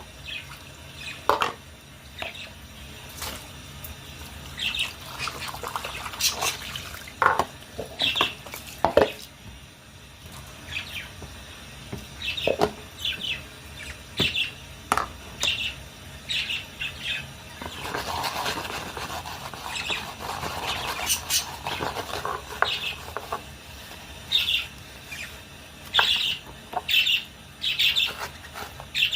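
Budgerigars chirping in many short, high calls, mixed with scattered knocks and clatter. For a few seconds about two-thirds of the way in there is an even rushing noise like running water.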